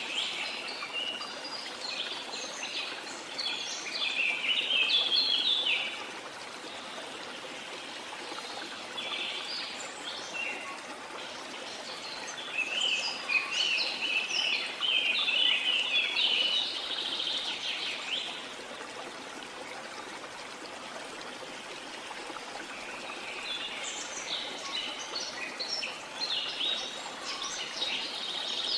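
Birds singing in spells of rapid, high chirping over the steady rush of a stream. The song comes in bursts, with gaps a few seconds long near a fifth of the way in and again past the middle, while the water runs on unbroken.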